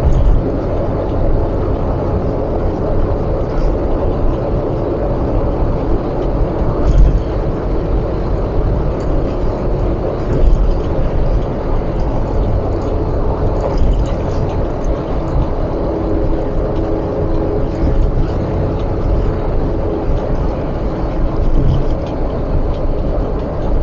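Steady road and engine noise inside a moving car, with a few light bumps from the road.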